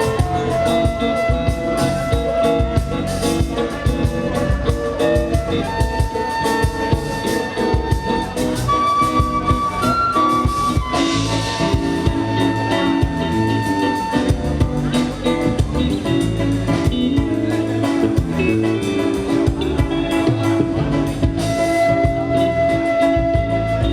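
Live band music: a melody of long held notes over a steady, pulsing beat with bass and drums.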